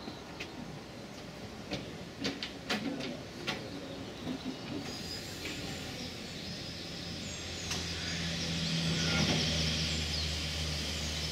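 Railway train sounds: a run of sharp knocks and clicks, then a steady hiss and a low hum that grows louder from about seven seconds in, with birds chirping faintly.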